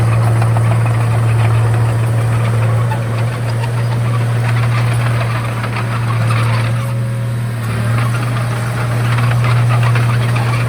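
Komatsu D31A bulldozer's diesel engine running with a steady low drone, easing off briefly about three seconds in and again past seven seconds.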